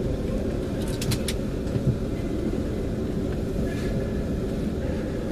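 Steady low rumble of a London Midland Class 350 electric multiple unit train running, with a few short clicks about a second in.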